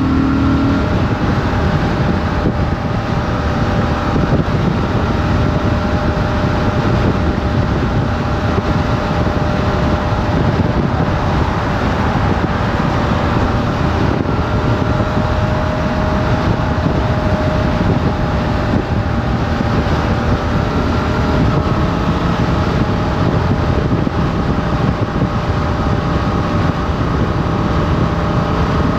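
Motorcycle engine running at a fairly steady speed under way, mixed with wind rushing over the onboard camera's microphone.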